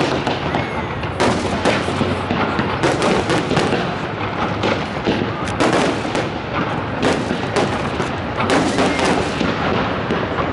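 Fireworks display: aerial shells bursting in the sky, many sharp bangs in quick succession with no pause.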